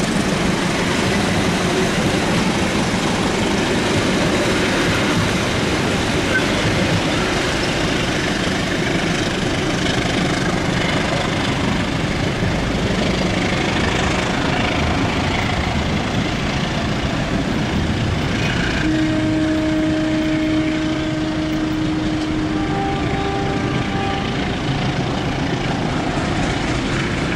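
Steady noise of a passenger train, with a low hum in the first half. A few held tones come in about two-thirds of the way through.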